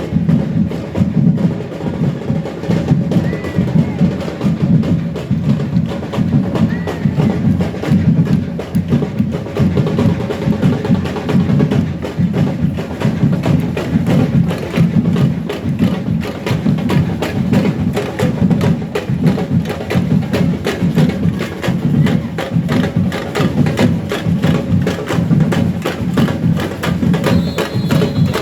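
Carnival percussion band drumming a steady rhythm of deep drums and sharp clicking strokes.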